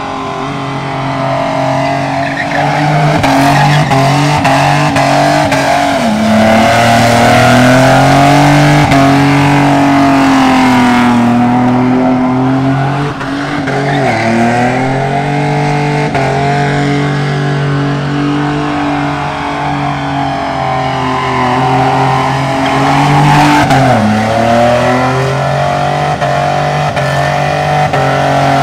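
Holden Commodore ute's engine held at high revs through a burnout, rear tyres spinning against the pad. The revs dip briefly and climb back about three times.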